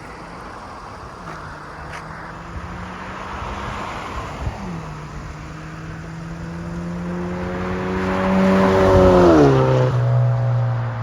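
Straight-piped exhaust of a 2017 Kia Optima SXL's 2.0-litre turbo four-cylinder, the car accelerating: the note climbs in pitch and grows louder, and drops with upshifts, the clearest about nine and a half seconds in.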